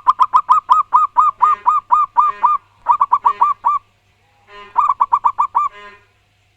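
Zebra dove (perkutut) cooing in loud, rapid runs of repeated notes, about six a second, in three bouts with short pauses, stopping about six seconds in. A faint steady low hum lies underneath.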